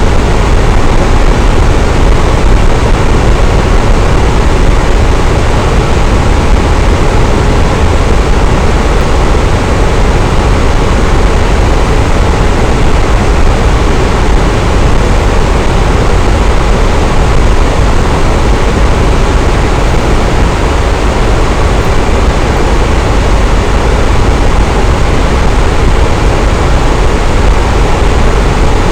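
Electric fan running steadily: a loud, even whooshing hum, heaviest in the low end, with no change in speed.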